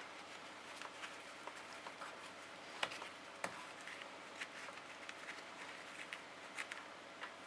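Faint scattered clicks and light taps of a stick being handled at an engine's oil filler hole while the oil level is checked, the sharpest two about three seconds in.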